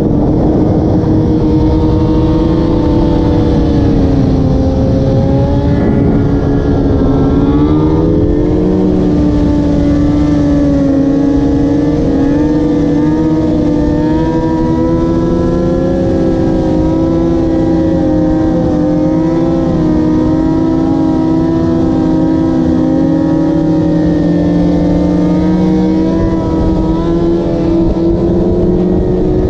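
Motorcycle engine running while riding, its pitch dipping and climbing again about eight seconds in, then holding fairly steady, with wind rumbling on the microphone.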